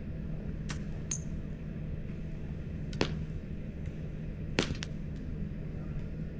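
Campfire burning with a steady low rumble and a handful of sharp crackles and pops from the wood, the loudest about three seconds and four and a half seconds in.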